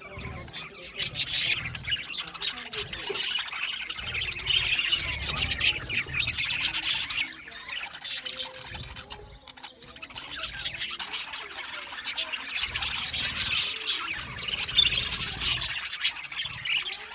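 A flock of budgerigars chattering, chirping and squawking together, coming and going in busy waves.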